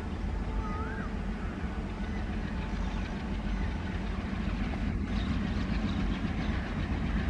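Diesel train running with a steady, heavy low rumble that slowly builds.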